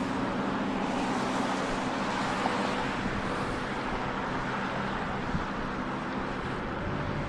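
Steady outdoor rush of road traffic and wind, with a low engine hum that fades away after about three and a half seconds.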